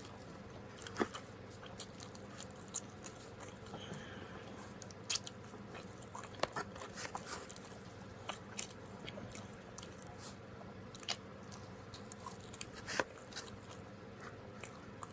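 Close-up chewing and biting of pepperoni pizza, with soft crunches and small mouth clicks scattered irregularly.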